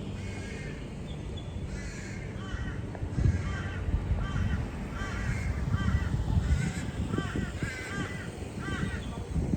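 Birds calling: a long run of short, repeated calls, several a second, over a low rumble.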